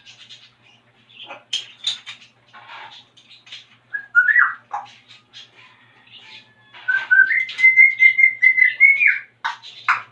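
African grey parrot whistling and chirping: scattered short chirps and clicks, a brief rising whistle about four seconds in, then a loud run of quick, repeated high whistled notes in the second half.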